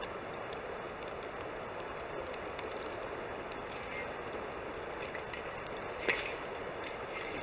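Campfire burning, its wood crackling in scattered small pops over a steady rushing hiss, with one louder pop about six seconds in.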